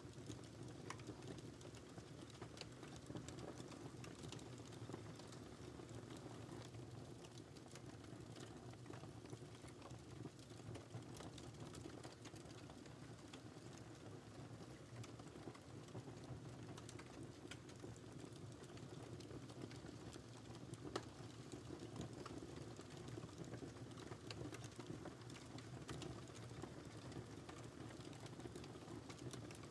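Wood fire crackling: a low steady rumble of the flames with frequent small irregular pops and snaps, the occasional louder pop standing out.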